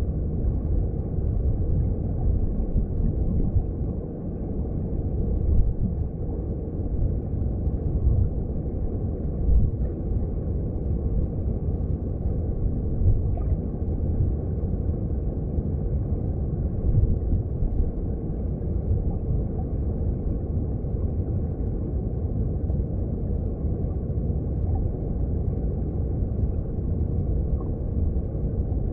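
Underwater recording of a mountain stream: a steady, muffled low rumble of flowing water, with small irregular swells.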